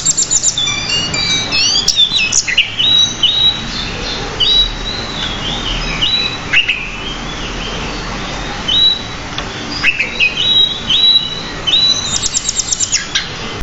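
Pied bushchat singing continuously: a varied run of short whistled notes and chirps that slur up and down, with a fast rattle of repeated notes near the end.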